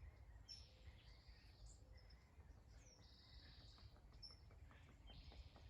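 Faint birdsong: several birds giving short chirps and calls, some falling in pitch, scattered through, over a low steady background rumble.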